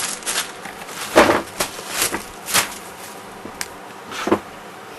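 Newspaper pages rustling and crackling in several short bursts as the paper is handled, the loudest about a second in.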